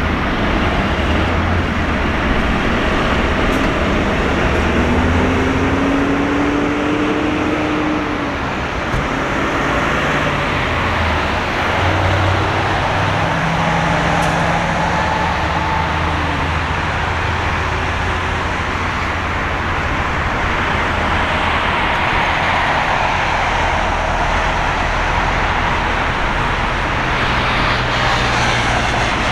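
Steady road traffic noise: a constant rumble with the engine tones of passing vehicles gliding up and down.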